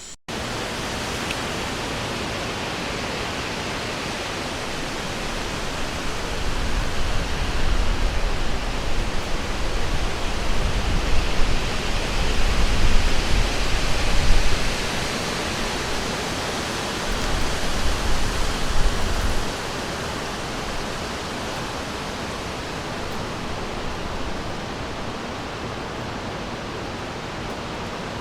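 River water rushing, a steady, full hiss. From about six seconds in, a low rumble swells and falls over it, then drops away suddenly near twenty seconds.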